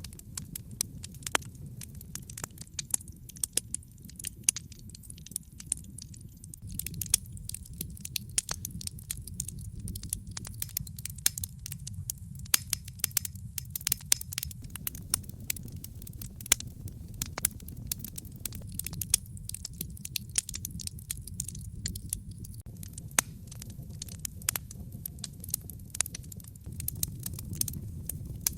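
Wood fire crackling, with many sharp snaps at irregular intervals over a steady low rumble of the flames.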